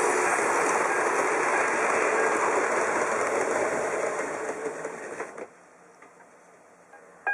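H0-scale model locomotive running on the track: a steady whirring of its small electric motor and wheels, fading and dying away to a faint hiss about five and a half seconds in.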